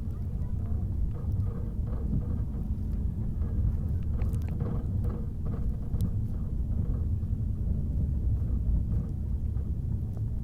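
Steady low rumble of a moving passenger train, with a few faint knocks.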